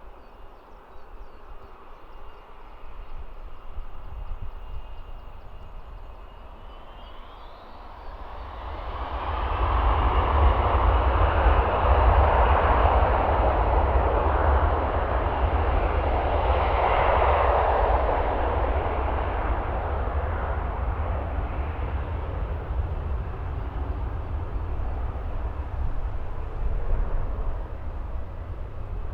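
Jet aircraft engines: a faint whine glides up in pitch about seven seconds in. A loud roar with deep rumble then builds, holds for several seconds and slowly eases off.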